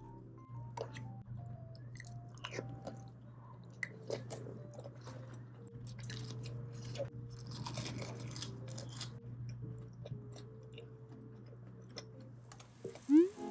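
Close-miked chewing of food, with small crunches and clicks, over soft background music. Just before the end there is a brief, loud rising sound.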